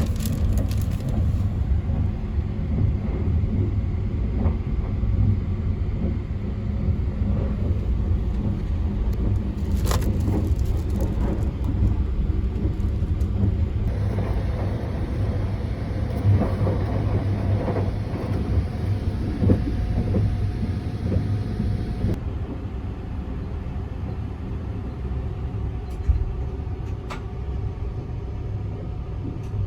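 Steady low rumble of the Sunrise Izumo sleeper train, with a few short knocks scattered through it.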